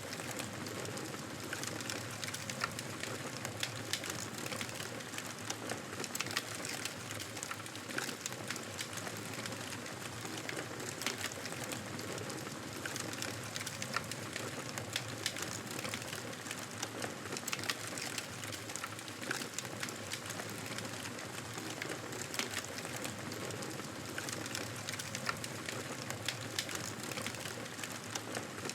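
Wood fire burning in a fireplace: a steady soft hiss of flames with frequent small crackles and pops from the burning logs.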